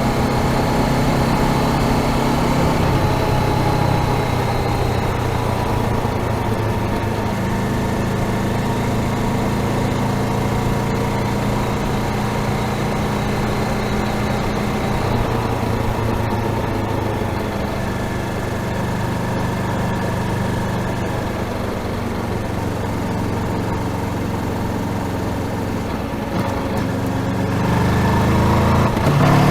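Honda CBR500R's parallel-twin engine running steadily at low revs, close to idle. Near the end the revs drop briefly, then begin to climb.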